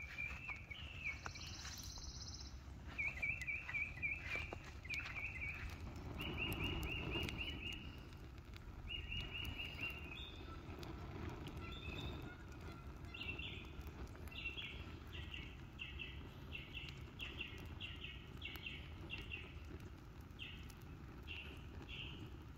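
A songbird singing repeated phrases of quick chirps, each phrase short and spaced by brief pauses, growing choppier in the second half, over a steady low rushing noise.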